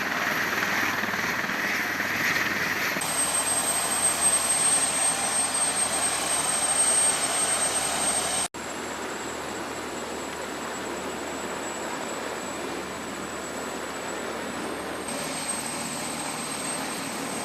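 AH-1Z Viper attack helicopter flying: steady rotor and turbine noise with a thin high whine. The sound changes abruptly about 3 seconds in and drops in level at about 8.5 seconds, as clips of the helicopter cut from one to the next.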